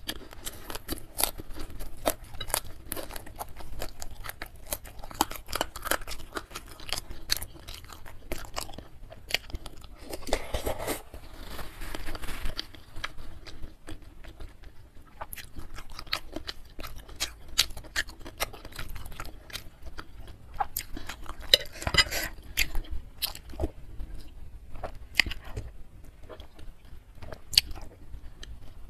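Close-miked chewing of bakso urat (beef tendon meatball), beef tetelan and noodles, with many small irregular clicks and smacks and a denser noisy stretch about ten to twelve seconds in.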